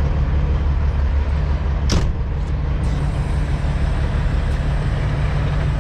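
Semi-truck diesel engine running steadily at low revs, heard from inside the cab while the truck is being backed. A single short, sharp click comes about two seconds in.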